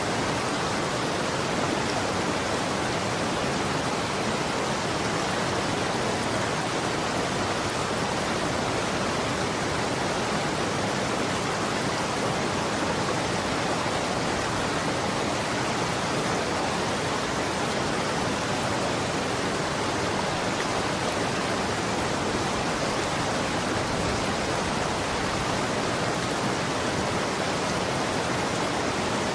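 Running water rushing steadily, an even, unbroken wash of noise that stays at the same level throughout.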